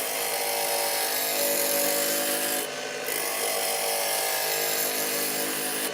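Wood lathe running while a turning tool cuts a spinning glued-up walnut blank, roughing it round: a steady hiss of the cut over the lathe's hum. The cut lifts off briefly about three seconds in, then bites again.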